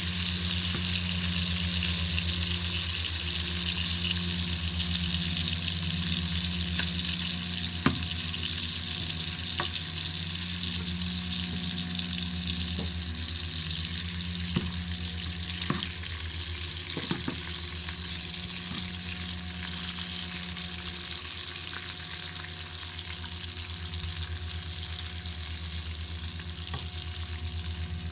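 Bacon sizzling over a crackling fire: a steady frying hiss with scattered sharp pops, over a low steady rumble.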